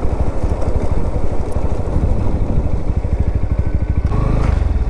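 Motorcycle engine running with a fast, even low pulsing. Its note changes briefly about four seconds in.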